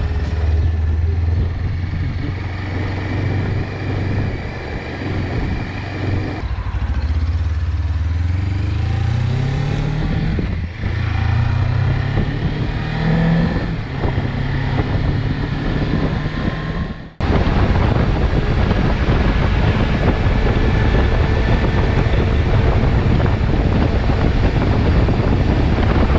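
Suzuki V-Strom 250's parallel-twin engine running steadily, then accelerating with its pitch rising, dropping at a gear change about ten seconds in, and climbing again. About seventeen seconds in, the sound cuts suddenly to a steady rushing noise.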